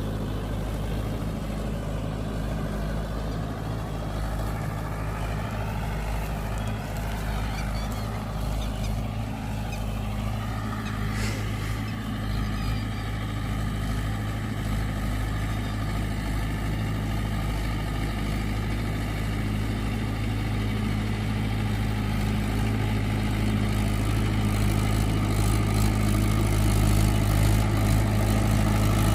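Mahindra 585 tractor's diesel engine running with a low, steady drone that grows gradually louder.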